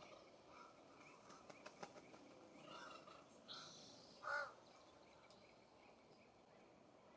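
Faint birdsong: a short, high song phrase recurs every few seconds, a few quick light taps sound about a second and a half in, and a little past four seconds comes one louder, short harsh call from a California scrub-jay.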